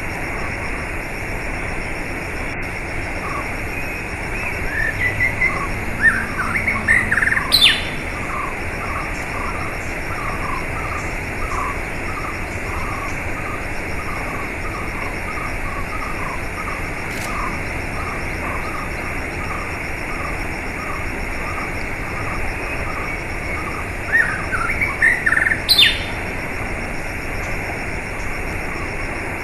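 Birds singing over a steady rush of running water. A burst of rising chirps ends in a sharp upward whistle about seven seconds in, and again near the end, with a long run of short repeated notes in between.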